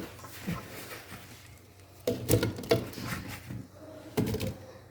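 A few short knocks and clatters of kitchen utensils and dishes as lemons and apples are handled for juicing.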